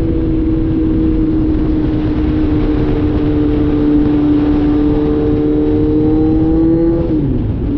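Kawasaki Z900's inline-four engine running with its catalytic converter removed, under way at a steady engine speed that sags slightly and then climbs, before its pitch drops sharply about seven seconds in.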